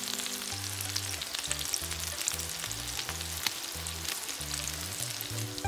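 Eggplant slices frying in hot oil in a pan, a steady sizzle full of small crackles and pops.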